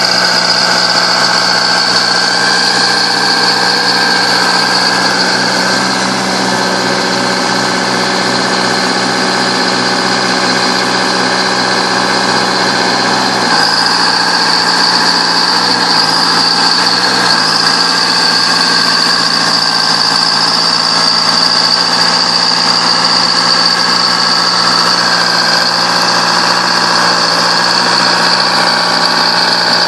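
Bulldozer engine running steadily, with a constant high whine over it. Its pitch dips briefly about halfway through, then recovers.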